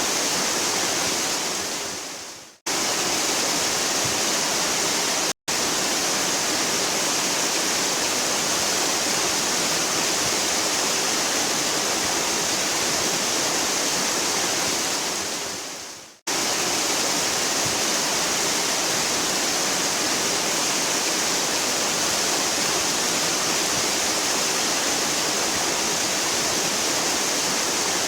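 Waterfall rushing in a steady, hissy roar of falling water. About two and a half seconds in it fades away to silence and cuts straight back in, drops out for an instant near five and a half seconds, and fades out and cuts back in again around sixteen seconds, the marks of spliced recordings.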